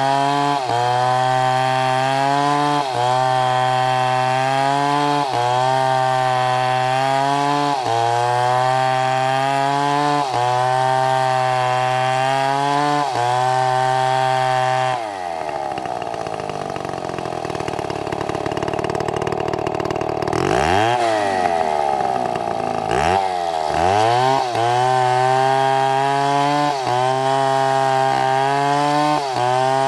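STIHL chainsaw cutting wood under load, its engine note steady with a brief dip every couple of seconds. About halfway through the engine eases off with a slowly falling pitch, revs up and down a few times, then settles back into cutting.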